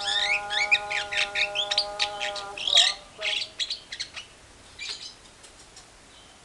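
Caged songbirds calling: a fast run of high chirps and trills over a steady held note, breaking off about three seconds in. A few scattered chirps follow and fade out.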